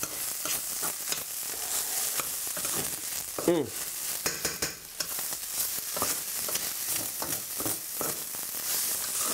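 Rice and vegetables sizzling steadily in a stainless-steel pan as they are stir-fried, with a metal utensil scraping and clicking against the pan while it turns them over.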